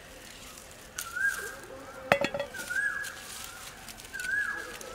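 A bird calling the same short rising note over and over, about every one and a half seconds. About two seconds in comes a single sharp metallic clink, a tomato dropped into a steel bowl.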